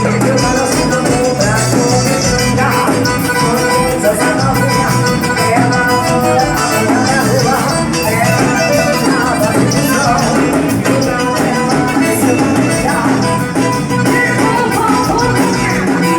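A band playing upbeat Latin-style dance music at a steady, full level.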